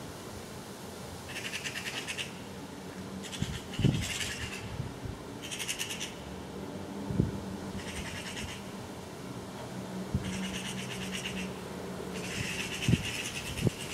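Eurasian magpies chattering: about six dry rattling bursts, each roughly a second long, a second or two apart, over a steady low hum.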